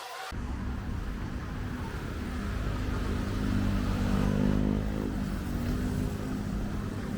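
A motor vehicle's engine running close by over steady street rumble, its note rising and strengthening around the middle before easing off.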